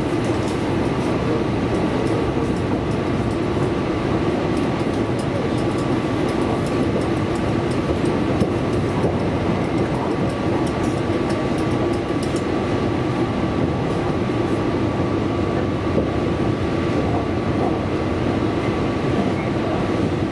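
Electric commuter train running at a steady speed, heard from inside the passenger car: an even rolling rumble of wheels on rail with a constant whine above it.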